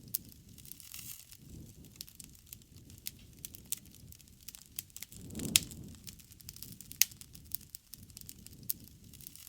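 Wood campfire crackling, with scattered sharp pops over a low rush of flame. The loudest pop comes about halfway through, within a brief swell of the rush, and another sharp pop follows a second or so later.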